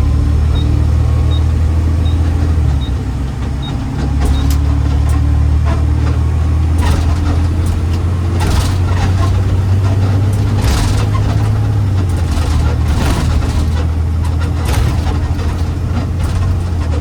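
Garbage truck engine running with a steady low drone while driving. A light, regular tick comes about every 0.7 seconds for the first few seconds. The engine note dips and picks up again around three to four seconds in. Sharp rattles and knocks come through the second half.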